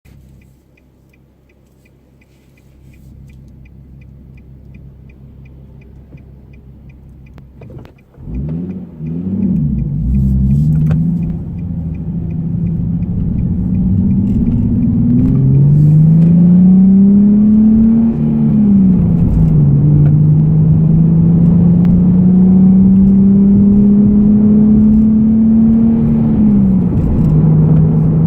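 Nissan Fairlady Z (Z34) VQ37 V6 with an aftermarket be free muffler, heard from inside the cabin. A quick regular ticking comes first, then the engine starts about eight seconds in with a short flare of revs and settles. It then pulls away, its pitch climbing steadily in gear, dropping at a gear change, and climbing again before dropping once more near the end.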